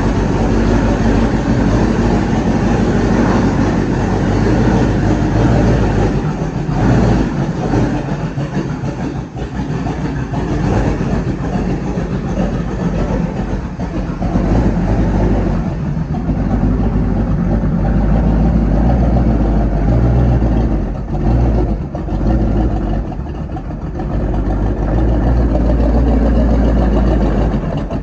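Rebuilt 305 small-block Chevy V8 running loud as the race car is driven, the engine note easing off and picking back up several times with the throttle.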